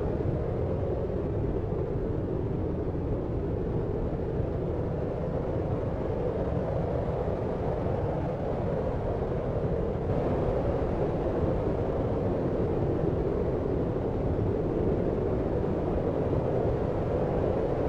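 Steady deep noise, a low, even rumble-like hiss with most of its weight in the low and low-middle range and little treble, swelling slightly about ten seconds in.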